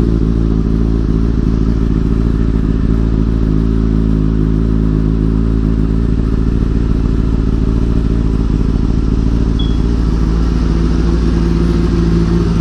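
Kawasaki ZX-6R 636 inline-four engine with a Two Brothers exhaust, idling steadily without revving shortly after a cold start.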